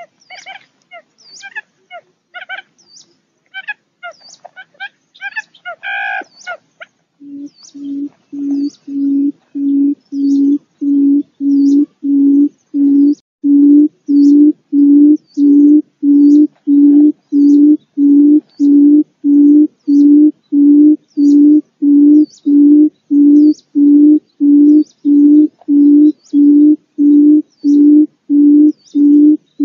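Bird calls: a run of short, high chirps, then from about seven seconds a long series of low, evenly spaced hooting notes, about one and a half a second. They build in loudness and then hold steady, with a faint high tick between them.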